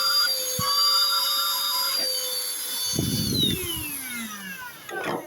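Cordless handheld vacuum cleaner's motor running with a steady whine, then switched off about three seconds in and winding down in a falling whine.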